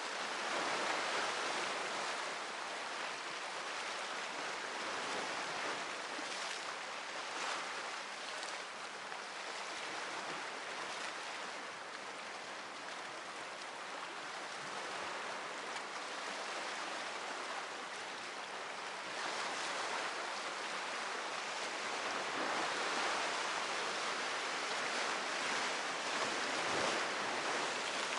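Sea surf: waves breaking and washing ashore in a steady hiss that swells and eases, louder in the last third.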